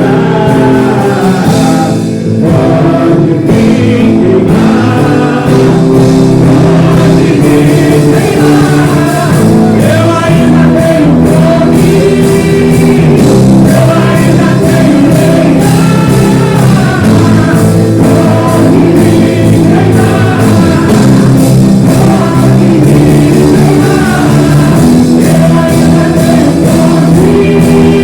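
Loud worship music: a church band playing with a steady beat while singers sing over it.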